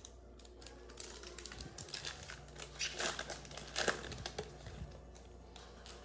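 Trading cards and a plastic pack wrapper being handled: dense crinkling and rustling about a second in, loudest in the middle, then easing off.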